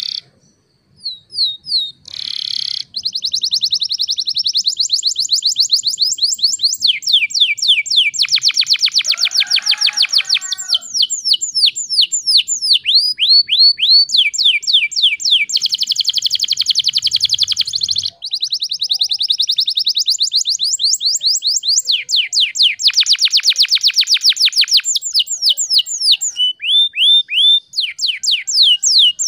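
Domestic canary singing a long, unbroken song of rapid trills. Each phrase is a fast run of repeated high whistled notes, and the bird switches to a new trill every second or two.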